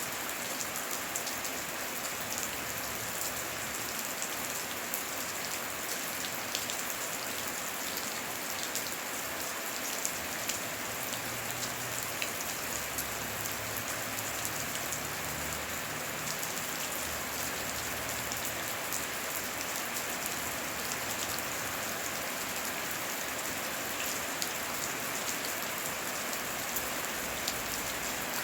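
Steady heavy rain, a constant hiss of falling water with many individual drops ticking through it.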